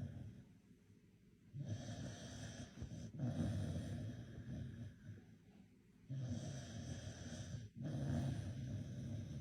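A sleeping dog snoring hard, low-pitched: two long snoring breaths, each broken briefly in the middle, with quieter pauses between them.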